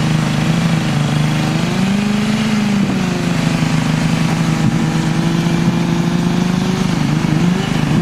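An engine running steadily, its pitch rising a little about two seconds in and wavering and dipping near the end.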